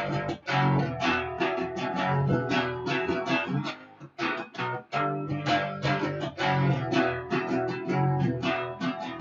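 Guitar in drop D tuning playing a fast, driving power-chord riff with quick strummed strokes, pausing briefly about four seconds in.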